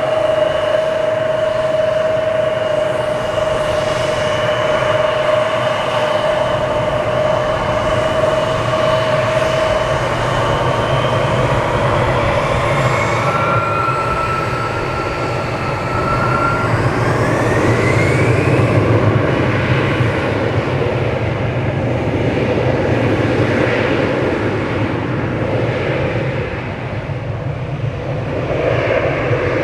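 Embraer E170's two GE CF34-8E turbofan engines at takeoff power: a steady whine over a broad roar, with pitches gliding upward about halfway through and the roar loudest about two-thirds in.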